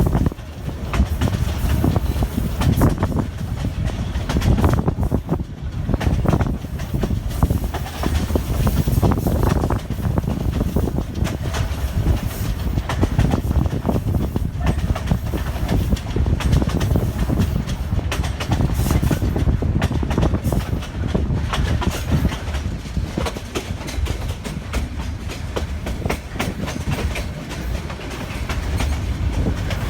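Old metre-gauge train coaches running over bumpy track: a steady low rumble with constant irregular rattling knocks and wheel clatter.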